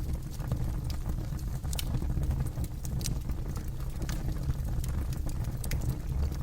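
Campfire burning with a steady low roar and irregular sharp crackles and pops of burning wood.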